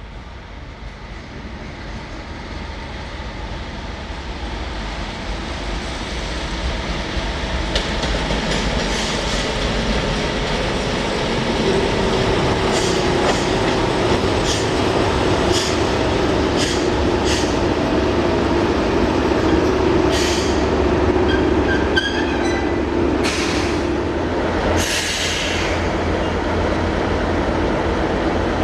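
A train approaching and running past, growing louder over about ten seconds and then holding loud. Wheels click over rail joints at a steady rhythm, with a steady tone through the middle, and a few short hissing bursts near the end.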